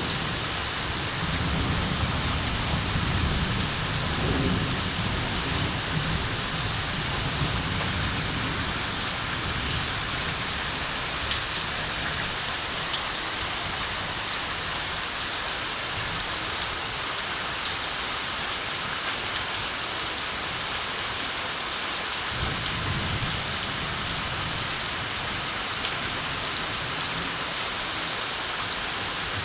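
Steady rain falling, a constant even hiss, with distant thunder rumbling low through the first few seconds and again about three-quarters of the way through.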